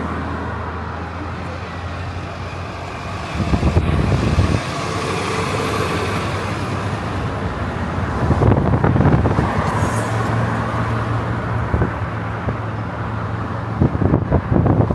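Motor vehicle running with road noise, a steady low hum, broken about three times by gusts of wind on the microphone.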